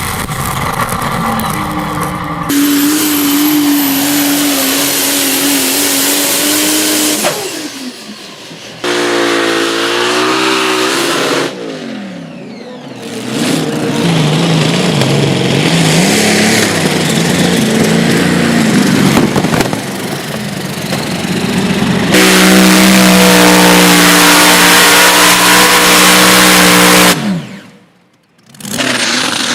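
Pulling tractor and truck engines running hard under load, in several short clips joined by abrupt cuts. In some clips the engine pitch holds steady; in others it glides up and down.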